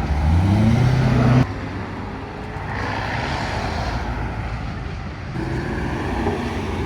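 A car engine accelerating, its pitch rising for about a second and a half before it cuts off suddenly, followed by quieter engine and traffic noise with another engine rising briefly near the end.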